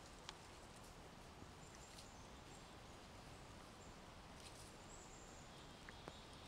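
Near silence: faint steady outdoor background hiss with a few soft isolated ticks.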